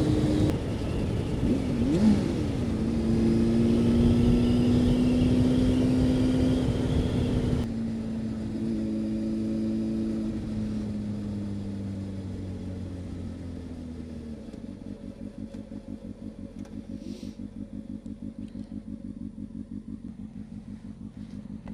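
Honda CB600F Hornet's inline-four engine running at steady speed with wind rush, then its note drops about eight seconds in and falls away as the bike slows, settling to a steady, pulsing idle from about two-thirds of the way through.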